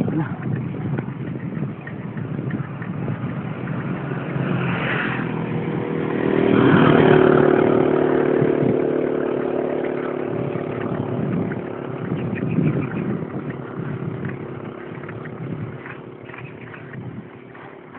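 A motor vehicle, most like a motorcycle, passes by: its engine hum grows louder to a peak about seven seconds in, then fades away. Under it runs the steady rattle and wind noise of a mountain bike being ridden.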